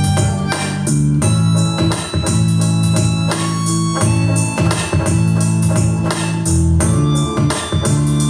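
Instrumental band music: sustained electronic organ chords over bass, with a steady beat of cymbal or tambourine hits.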